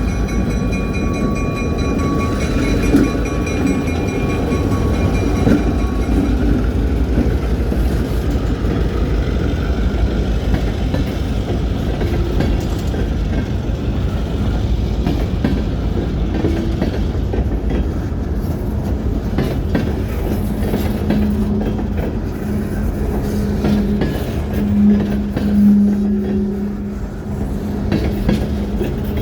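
Freight train rolling past, a steady rumble with wheel clatter. A held horn tone fades out over the first few seconds, and a low steady hum comes in about two-thirds of the way through.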